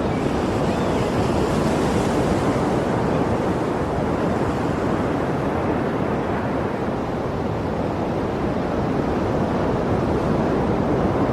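Sea surf washing steadily on a shore, a continuous rush of breaking waves with gentle swells in loudness.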